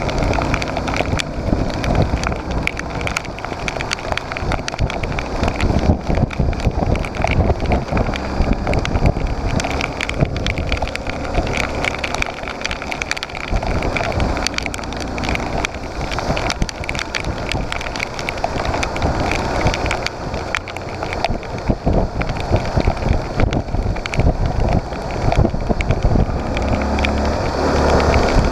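Motorcycle on the move in rain: wind buffeting the microphone over the engine, with a steady crackle of rain.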